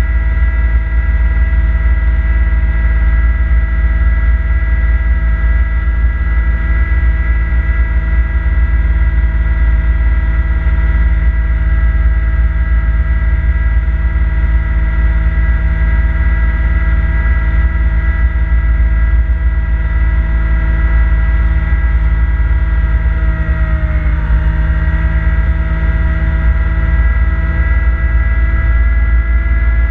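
Kubota B2650 tractor's three-cylinder diesel engine running steadily at working speed, driving a front-mounted snowblower. About 24 seconds in, the engine pitch dips briefly, then recovers.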